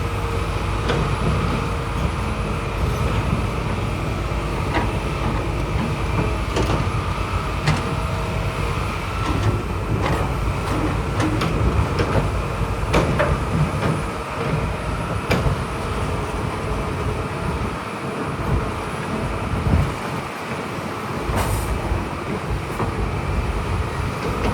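Heavy diesel earthmoving machinery running steadily with a deep rumble, and scattered sharp metallic clanks and knocks.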